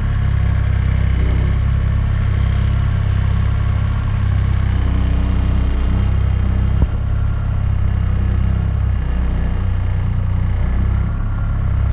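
Outboard kicker motor running steadily at trolling speed, about 2 mph, with a single click about seven seconds in.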